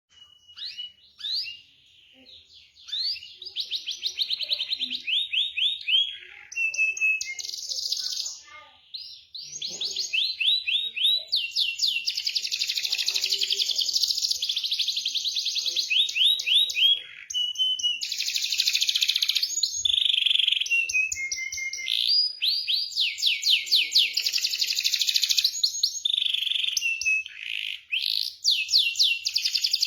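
Domestic canary singing a long rolling song of fast trills and rapid repeated chirps, with short pauses between phrases. The song starts in scattered phrases, then runs almost without a break from about ten seconds in.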